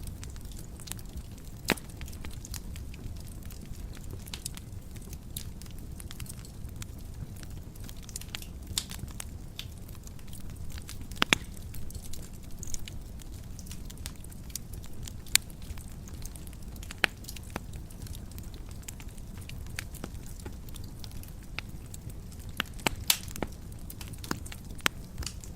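Fire burning in a fireplace: a steady low rumble of flames with irregular sharp crackles and pops, a few of them louder snaps.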